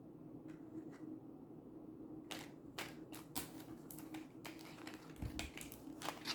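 Tarot cards being handled: faint light clicks and taps at an irregular pace, starting about two seconds in, with a single low thump near the end.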